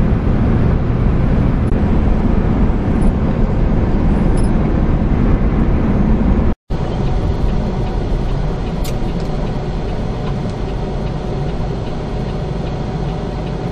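Steady engine and road noise inside a semi-truck cab, cutting out completely for a split second about six and a half seconds in.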